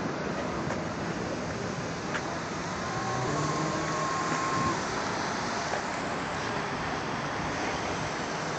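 Steady outdoor rumble like road traffic. A faint held tone sounds for about a second and a half in the middle.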